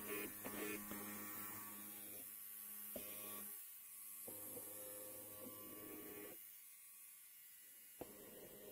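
Electric hair clipper buzzing with a steady low hum. The buzz changes partway through and drops out briefly twice.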